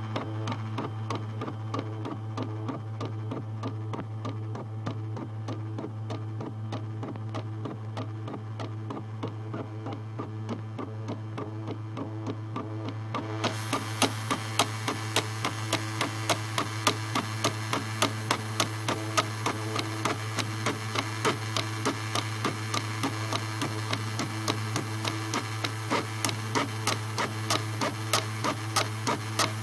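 CNC engraving machine running, a steady hum with fast fine ticking from its drive. About halfway through, a harsher hiss with regular sharp clicks sets in and carries on.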